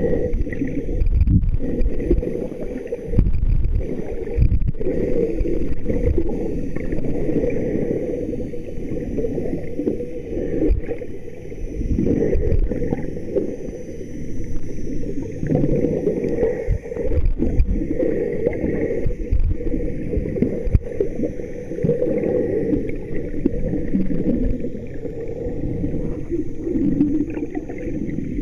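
Muffled, irregular water sloshing and gurgling, with the sound heavy in the lows and dull in the highs.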